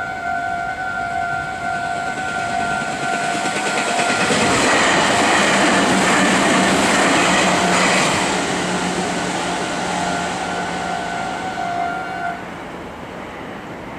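Level-crossing warning bell ringing steadily as a Meitetsu electric train passes over the crossing, the train's rush of wheels on rail loudest for a few seconds in the middle and drowning the bell; the bell stops near the end as the crossing clears.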